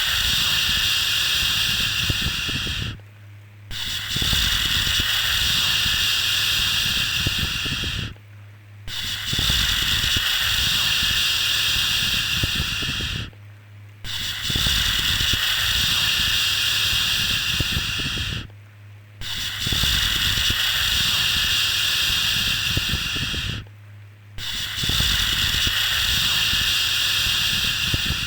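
Repeated long 'shhh' shushing sounds for soothing a baby to sleep, each held about four and a half seconds with a short break before the next, six in all. A low steady hum runs underneath.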